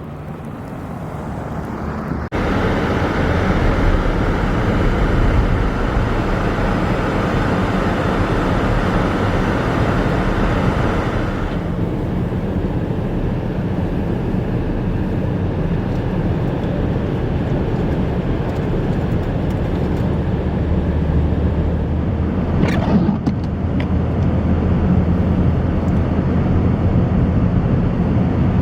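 Steady rushing noise of a vehicle on the road in a blizzard, wind and tyre noise together, jumping louder suddenly about two seconds in.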